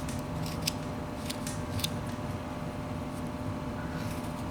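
Pocketknife whittling a small wooden apple: a few light, scattered cutting clicks as the blade takes off wood, over a steady low hum.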